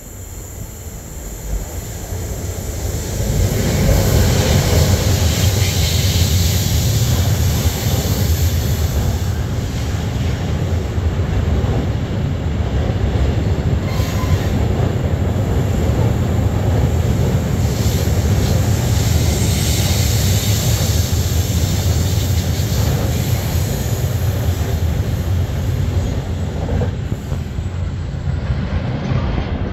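Slow uphill freight train, led by an E483 electric locomotive and made up of sliding-tarpaulin wagons, rolling past on the main line. The sound grows over the first three seconds or so as the train arrives, then holds a steady, loud noise of wheels on rail and wagons running.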